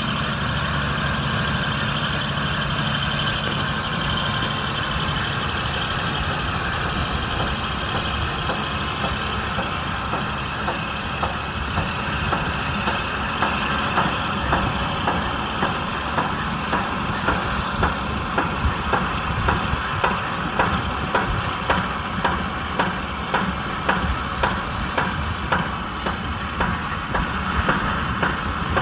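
Kubota M125X tractor's diesel engine running steadily while pulling a baler. From about ten seconds in, the baler's mechanism adds a regular clacking, roughly once a second.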